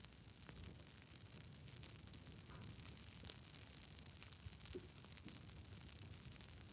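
Campfire burning, faint, with scattered small crackles and snaps of the wood over a steady low hiss.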